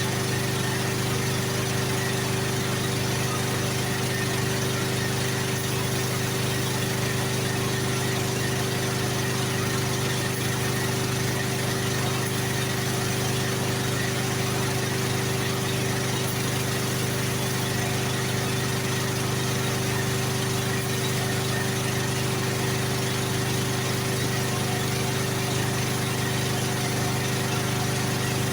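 Spray-painting rig running steadily: a constant motor hum over even hiss, typical of an air compressor feeding a paint spray gun.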